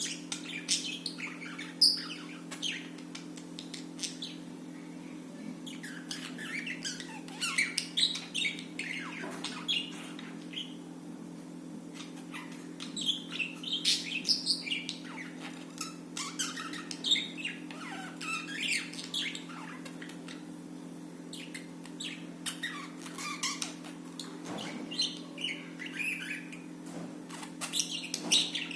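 Budgerigars chirping and squawking in quick irregular bursts, in clusters with short lulls, over a steady low hum.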